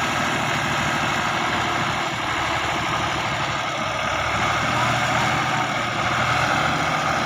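Fiat 480 tractor's three-cylinder diesel engine running steadily.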